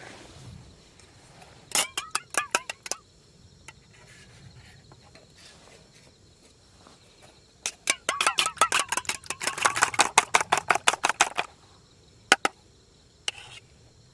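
Quick runs of sharp knocking strokes from hand food preparation with a kitchen utensil: a short burst of about eight strokes, then a longer run of fast strokes lasting about four seconds, and a couple of single knocks near the end.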